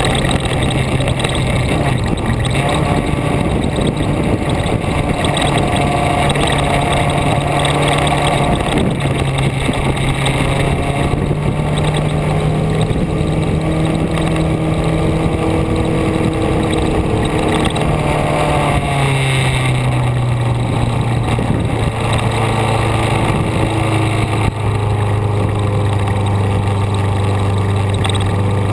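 A vehicle's engine running steadily while driving, its pitch shifting up and down several times as speed and gears change.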